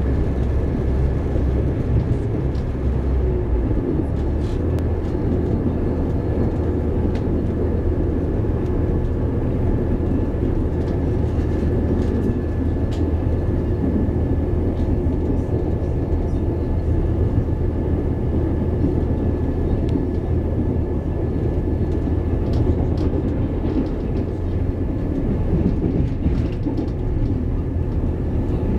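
Steady rumble of a passenger train crossing the steel Forth Bridge, heard from inside the carriage, with occasional faint clicks from the wheels and track.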